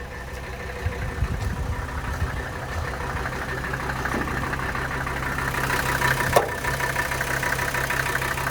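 Mercedes-Benz OM617 five-cylinder turbo diesel idling steadily with diesel clatter, growing louder about halfway through, as when the hood comes open. A few knocks about a second in and a sharp click about six seconds in.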